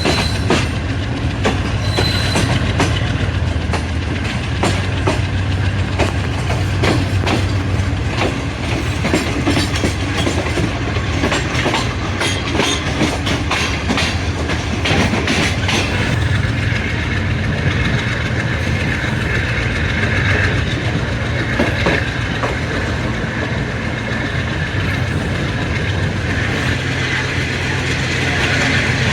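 Passenger train running, heard from on board: the steady low drone of the AGE30 'Blue Tiger' diesel-electric locomotive under many sharp wheel clicks over rail joints. The clicks are thickest in the first half.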